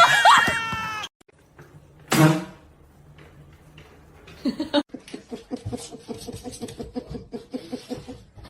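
A cat meowing: pitched, wavering calls in the first second, one short loud meow about two seconds in, then a quick run of soft repeated sounds, about five a second, over the last few seconds.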